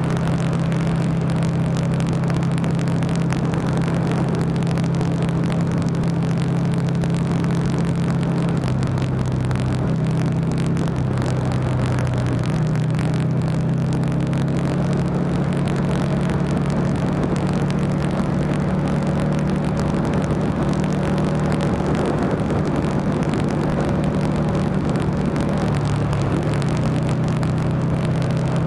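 Buell XB9SX's air-cooled V-twin engine running at highway cruising speed, with wind and road noise around it. The engine note drops and rises a few times as the throttle changes.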